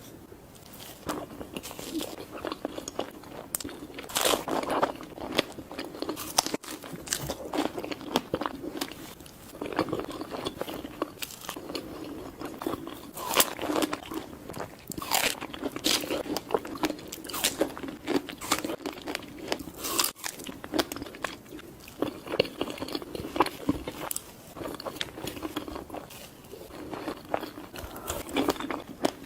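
Close-miked eating: a person biting into and chewing crunchy food, with sharp crunches coming irregularly, often more than one a second.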